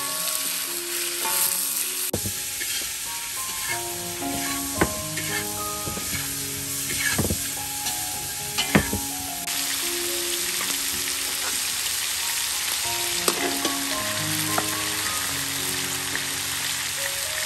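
Bone-in meat sizzling in a hot metal wok while being stir-fried with a metal spatula, a steady frying hiss with occasional scrapes. A few sharp knocks come partway through, from a cleaver on a wooden chopping board. Soft background music with a simple melody plays underneath.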